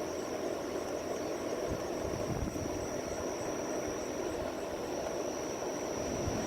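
Steady outdoor night ambience during a storm: an even hiss with a continuous high-pitched drone of insects, and a few faint low thuds about two seconds in.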